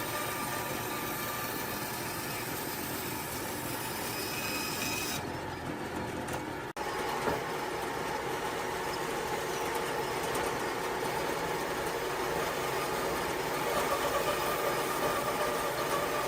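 A power tool running steadily, with a short break in the sound about seven seconds in.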